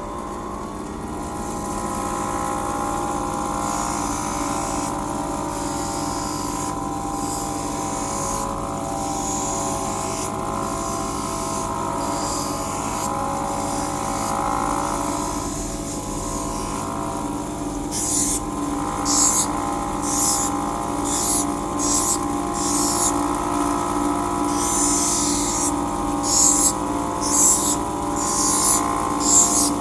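Small electric lens-edging hand grinder running steadily while a spectacle lens is ground against it. From about two-thirds of the way through, the grinding comes in short, regular strokes, a little more than one a second.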